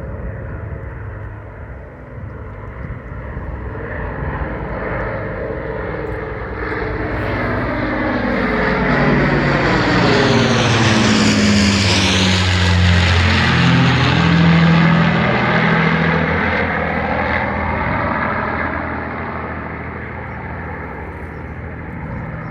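Avro Lancaster's four Rolls-Royce Merlin piston engines in a low flyby: the propeller drone grows louder, is loudest about halfway through, drops in pitch as the bomber passes overhead, then fades away.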